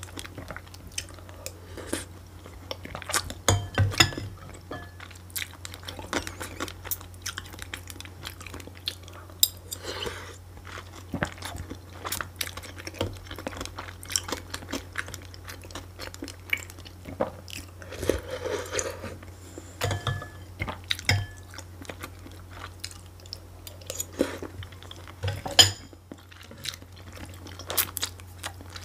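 Close-miked chewing and crunching of food, with scattered sharp clicks, over a steady low hum.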